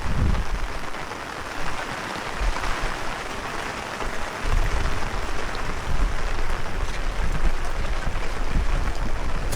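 Heavy rain falling steadily, with gusts of strong wind buffeting the microphone in irregular low rumbles.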